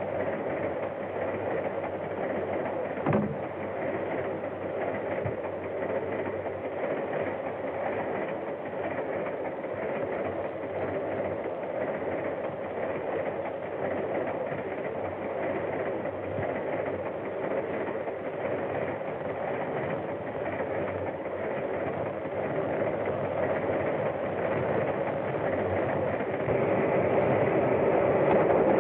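A steam train running on the rails, a steady mechanical noise that grows louder near the end, with a single sharp knock about three seconds in.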